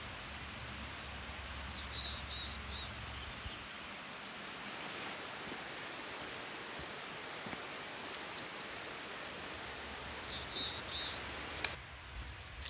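Steady outdoor background hiss in a forest, with a small bird singing twice. Each song is a short high phrase of falling notes followed by a few quick repeated notes, about a second and a half in and again near the end.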